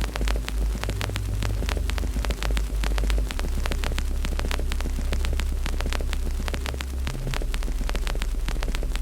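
Fireplace fire crackling with rapid, irregular pops and snaps over a deep, steady low rumble that shifts in pitch a couple of times.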